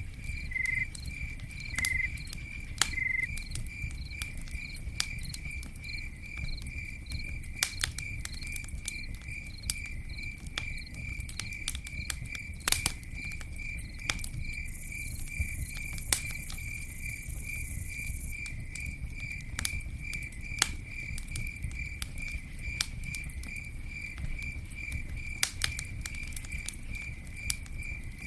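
Campfire burning with a low rumble and scattered sharp crackles and pops, while a cricket chirps steadily in an even rhythm of about two to three chirps a second. A brief high hiss comes about halfway through.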